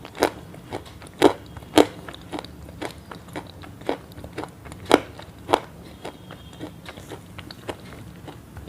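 Crisp crunches and crackles at irregular intervals, a handful of sharp loud ones in the first six seconds, then only faint crackling.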